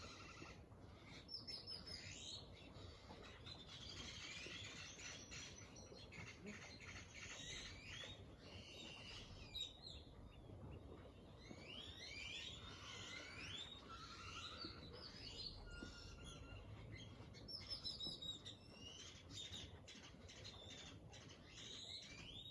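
Several small birds chirping and trilling, faintly, over a low hum of background noise.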